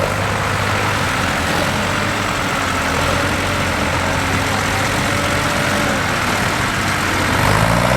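Tractor diesel engine running steadily, its pitch rising near the end as it is given more throttle.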